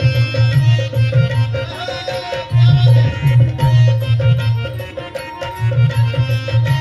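Instrumental interlude of a Marathi devotional folk song: a hand drum plays a fast, steady rhythm with deep bass strokes under a sustained melodic accompaniment, and a short gliding melodic phrase about two seconds in.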